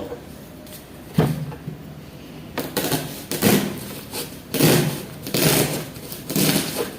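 Green corn husks rustling and crackling as they are handled and pulled from the ears, in several irregular bursts.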